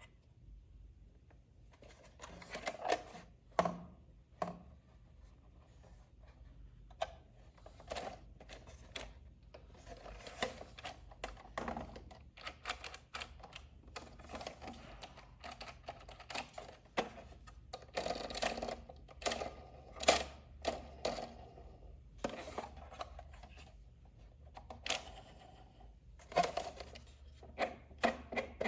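Irregular clicks, clacks and short rustles of plastic toy parts and packaging being handled up close, some louder taps scattered among them.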